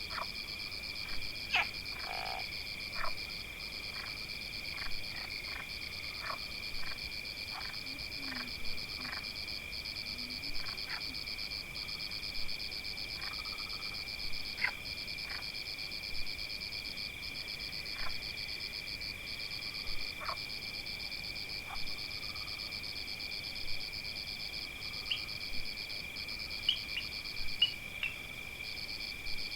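A frog chorus in a forest, with continuous high-pitched trilling and short, sharp croaks every second or so. A quick run of chirps comes near the end.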